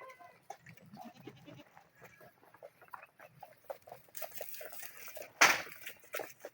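A goat calling once, loud and brief, about five and a half seconds in, over scattered short clucks and peeps of chickens and chicks.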